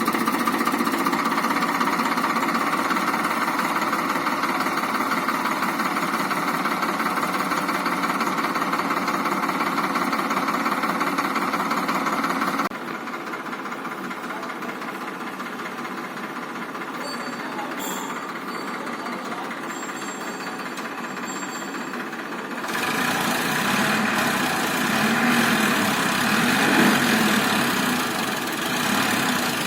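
Tractor's diesel engine running steadily with a knocking chug. A little under halfway through the sound turns abruptly quieter and duller for about ten seconds, then comes back louder.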